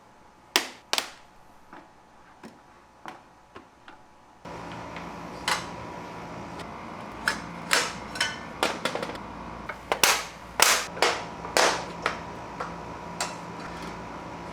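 Irregular sharp clacks and knocks of hard objects being handled and struck together, a few spread out at first, then a busier run over a steady faint hum that comes in about four and a half seconds in.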